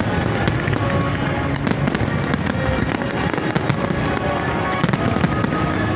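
A fireworks display in full flow: a continuous barrage of bangs and crackling, with music playing along.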